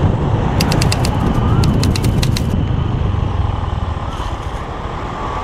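Motor scooter riding along a road: engine running under a steady rumble of wind on the microphone. From about half a second in to past two seconds, a quick run of a dozen or so sharp clicks.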